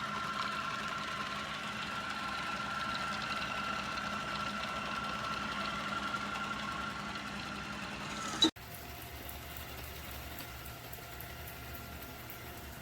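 Robot vacuum running steadily, its motor giving a steady hum with a thin whine. About eight and a half seconds in the sound cuts off abruptly, then resumes as a quieter, similar hum.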